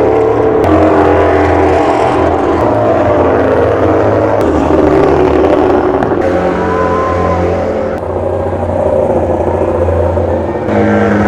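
MotoGP race motorcycle engines running loud and steady, with a little rise and fall in pitch.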